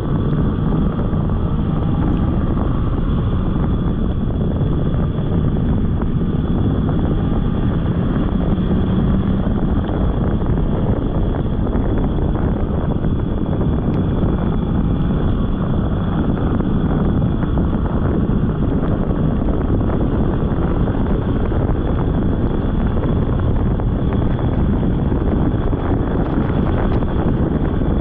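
Polaris snowmobile running steadily under way, engine and track noise with a dense low rumble that never lets up.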